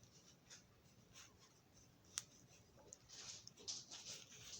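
Faint rubbing of a cloth wiping the wheels of a toy locomotive clean of residue, with a few light clicks and one sharper click about two seconds in.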